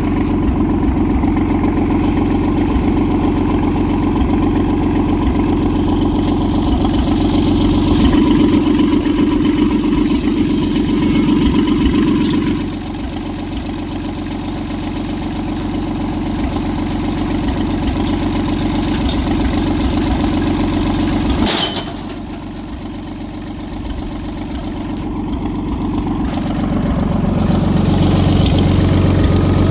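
Farmall 560 tractor engine running steadily, dropping back about twelve seconds in. A single sharp knock comes about twenty-one seconds in, and the engine picks up speed again near the end.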